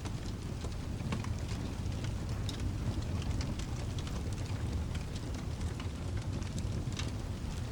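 Mixed rain and fireplace ambience: a steady low rushing noise of rain with sparse, sharp crackles and pops from burning logs.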